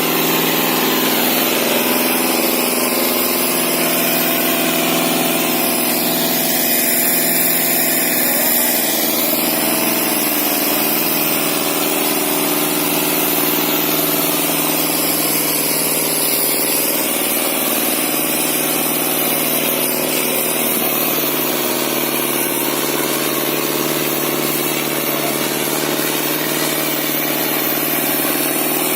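Sonalika DI 750 tractor's diesel engine running steadily at an even speed.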